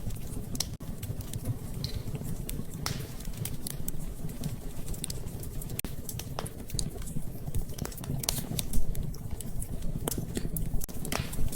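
Wood fire crackling in a fireplace: irregular sharp snaps and pops, a few louder ones, over a steady low rumble with rain patter.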